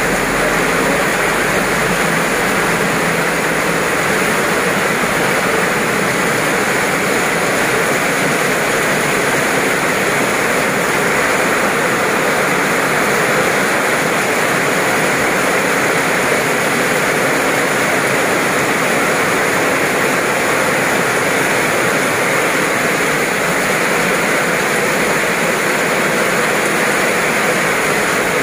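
Heavy downpour: a steady, loud hiss of rain pelting wet paving and leaves.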